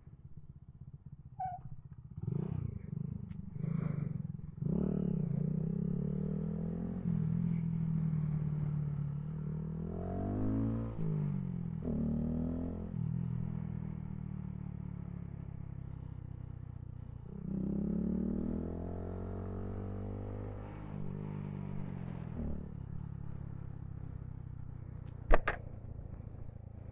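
Honda Grom's small single-cylinder engine being ridden through the gears: the revs climb and drop several times with shifts, then settle to a lower steady run. A single sharp knock comes near the end.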